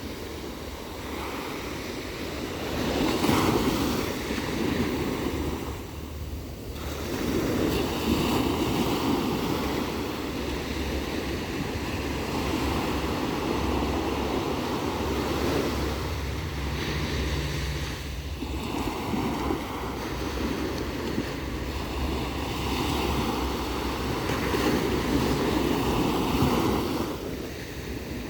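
Ocean surf: waves breaking and rushing in, in long swelling surges. A short surge comes about three seconds in, followed by two longer ones of roughly ten seconds each.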